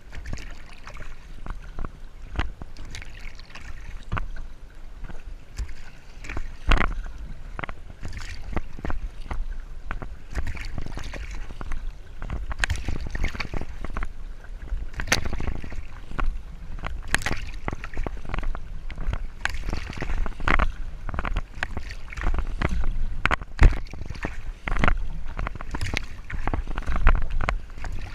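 Sea water splashing and lapping against a kayak's hull in irregular slaps, over a steady low wind rumble on the microphone.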